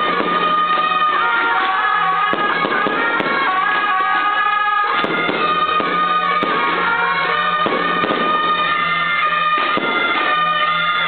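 Shrill suona-led temple procession music over a dense, continuous crackle of firecrackers.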